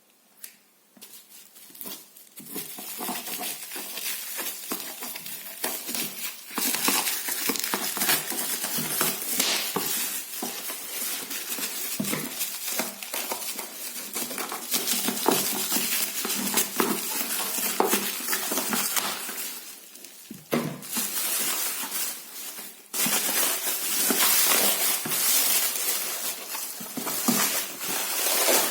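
Unboxing an Ardesto 1.5 l teapot: packaging crackling and rustling as it is handled, with many small clicks and knocks and the odd clink of tableware. There is a brief lull about 20 seconds in.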